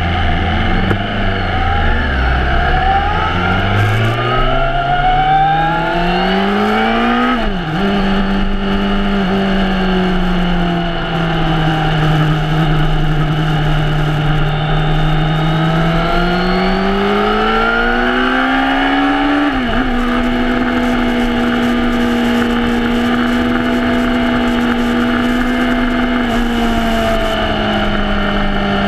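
Suzuki sportbike engine heard from an onboard camera with wind rush. The engine starts at low revs, rises hard and drops sharply at gear changes about a quarter and two-thirds of the way through, then holds steady revs near the end.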